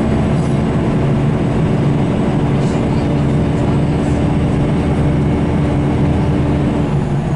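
Scania L94UB bus under way, its engine and ZF gearbox running with a steady drone and a held whine that changes pitch near the end.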